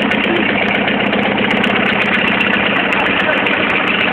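Audi 80's diesel engine idling steadily with an even, rapid clatter.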